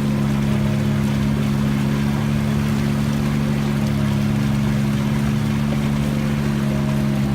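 An engine running at a steady speed, a low, even drone that holds its pitch over a wash of noise.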